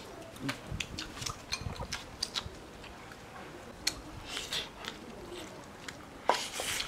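Eating sounds: scattered soft clicks and smacks of chewing as a slice of sticky-rice-stuffed pork stomach is bitten, with light taps of chopsticks on a porcelain bowl.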